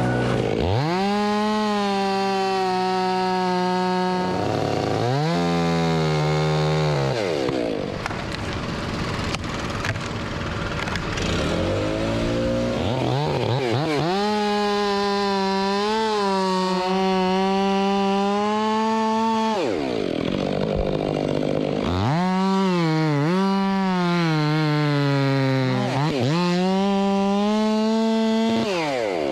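Two-stroke chainsaw run at full throttle in three long runs, dropping back toward idle between them. In the later runs the pitch sags and wavers as the chain bites into wood.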